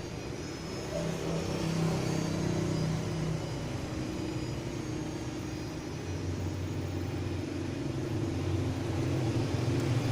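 A low mechanical hum and rumble, with its pitch shifting about two seconds and again about six seconds in.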